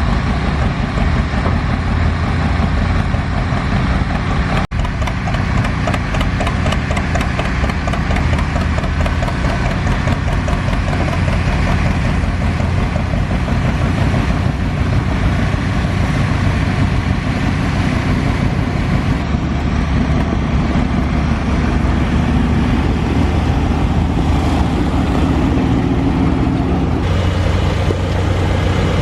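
An engine running steadily at close range, loud and even, with a low throb and no revving.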